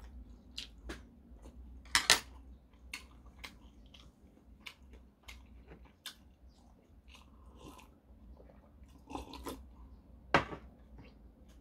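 Close-up chewing of a mouthful of food, with wet mouth clicks and smacks. Two louder sharp clacks stand out, one about two seconds in and one near the end.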